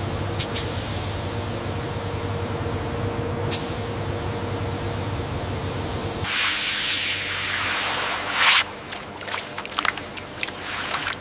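Steady pressurised spray hissing over a low machine hum. About six seconds in, the hum stops, and a louder spray burst is followed by several sharp clicks.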